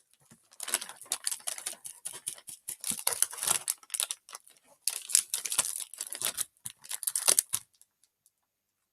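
A plastic packet of a dry instant-noodle snack crinkling and crackling as it is torn open and the noodles inside are crushed by hand. This makes a dense run of crinkles and cracks that stops near the end.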